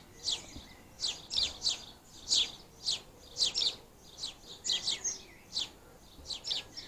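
Small birds chirping from a tree or roof out of sight: a steady run of short, high chirps, about two or three a second.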